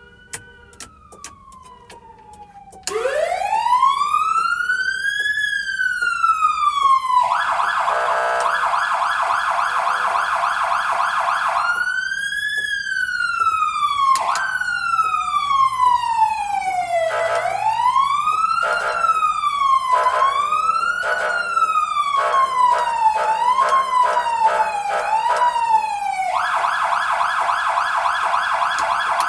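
Fire engine siren run through its tones. It opens with a faint tone winding down, then about three seconds in a loud wail rises and falls. A rapid warble follows, then sweeps that start slow and quicken into fast yelps, and the rapid warble returns near the end.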